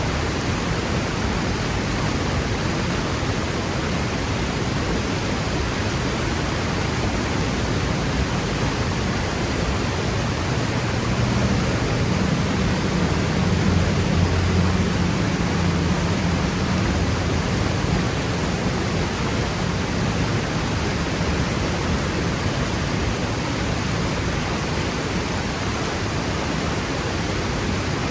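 Waterfall crashing steadily: a loud, even rush of falling water, with a low rumble that swells for several seconds around the middle.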